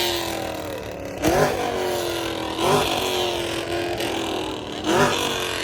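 A car engine revved in three sharp blips, about a second in, near the middle and near the end, the revs dropping slowly back between each.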